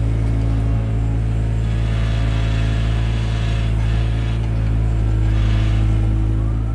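Takeuchi TB175 excavator's diesel engine running steadily under load, with a higher hiss swelling twice, about two and five and a half seconds in.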